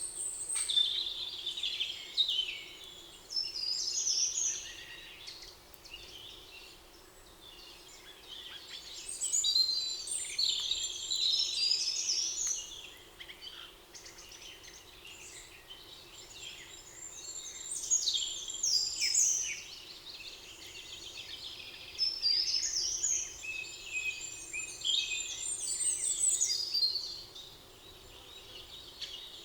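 Songbirds singing, high twittering phrases a few seconds long that come again every several seconds with quieter gaps between.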